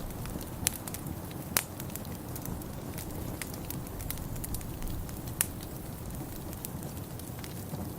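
Wood fire burning in a fireplace: a steady low rumble with sharp crackles and pops at irregular intervals, the loudest about a second and a half in and again about five seconds in.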